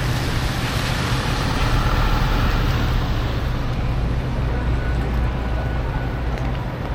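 City street traffic: a motor vehicle's engine running close by with a steady low hum over constant road noise.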